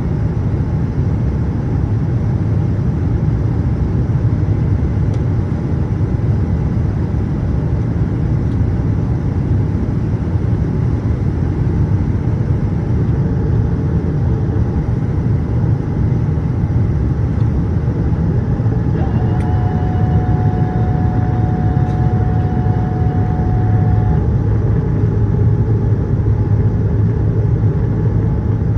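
Boeing 787-8 airliner cabin noise in flight: a steady, loud low rumble of engines and airflow. About two-thirds of the way in, a steady higher tone sounds over it for about five seconds.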